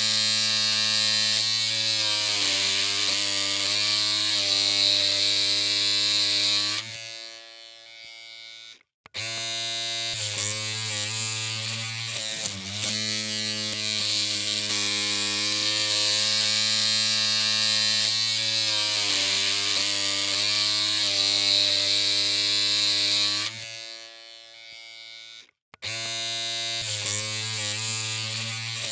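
Electric hair clippers buzzing steadily, their pitch wavering now and then. The buzz fades and stops twice, about seven and about twenty-three seconds in, and starts again abruptly about two seconds later each time.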